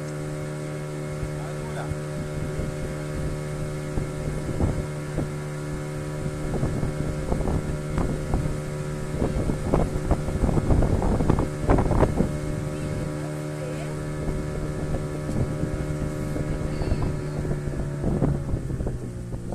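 Motorboat engine running at a steady pitch, its tone dropping slightly near the end, with people talking over it for a few seconds in the middle.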